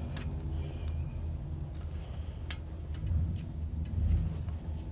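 Passing road traffic: a steady low rumble that swells twice in the second half as vehicles go by, with a few sharp light clicks.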